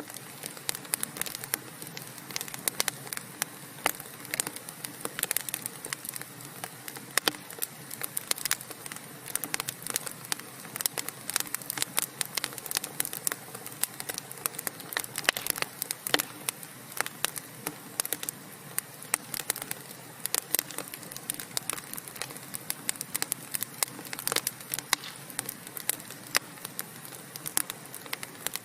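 Wood fire burning in a fireplace: dense, irregular crackles and pops from the logs over a steady soft hiss.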